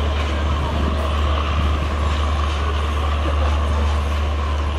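Sundarban Express passenger train moving out of the station: a steady low drone over a constant rumble, with no let-up or change.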